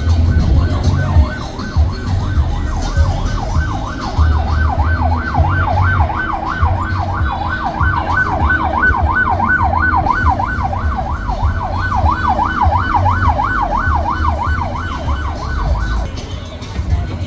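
A siren tone warbling fast, sweeping up and down about three or four times a second at a steady loudness, over a deep bass beat. The siren stops about a second before the end.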